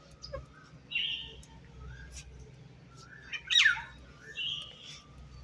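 Pet parrot calling: a few short chirps and squawks, the loudest a sharp call sliding downward about three and a half seconds in.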